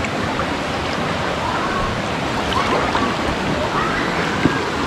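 Mountain stream water rushing steadily over rocks, with faint children's voices calling in the distance.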